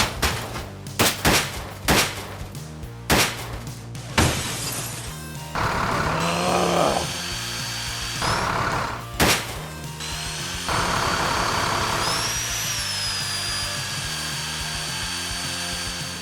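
Background music with added sound effects: a run of sharp knocks and cracks, then a steady mechanical whirring like a power tool, with a thin high whine that rises and falls once late on.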